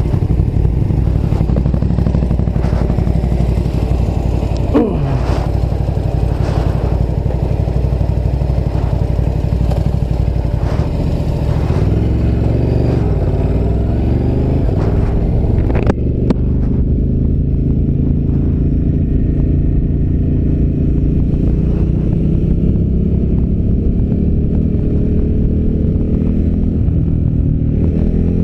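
V-twin adventure motorcycle engine running under way, its pitch rising and falling with throttle and gear changes. Wind noise over the microphone fades about halfway through.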